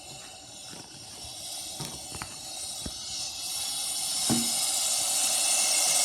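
A steady hiss that slowly grows louder over several seconds, with a few faint clicks.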